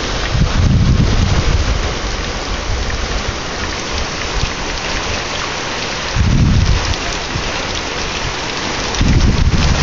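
Heavy hurricane rain pouring steadily, with three short low rumbles: about a second in, just after six seconds, and again near the end.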